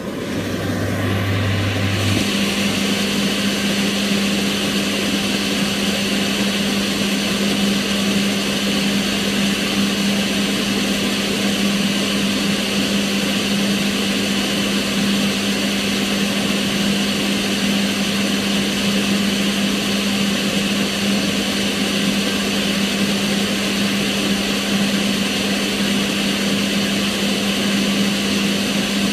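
Kitchen range hood extractor fan running steadily: an even rush of air over a steady motor hum. About two seconds in, the hum jumps up in pitch and then holds.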